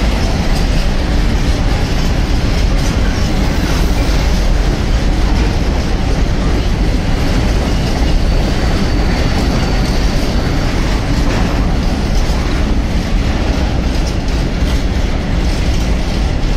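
Freight train of covered hopper wagons rolling steadily past on steel wheels, with repeated clicks as the wheels cross the rails and a faint high squeal briefly near the middle.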